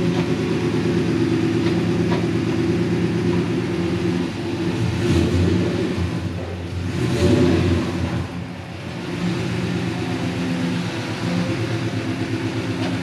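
A car engine running at low speed, growing louder around six to eight seconds in as it accelerates, then settling back to a steady run.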